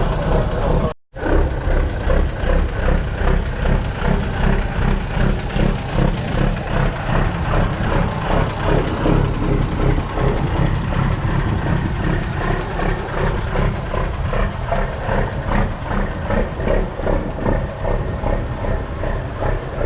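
Diesel semi-truck engine idling close by, with a lumpy, pulsing beat. There is a brief cut to silence about a second in.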